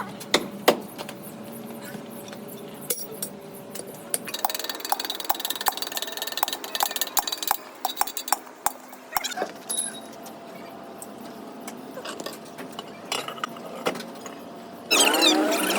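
Metal parts and tools clinking and tapping at a workbench, with a run of even taps about two a second partway through. A louder continuous noise with a shifting pitch starts just before the end.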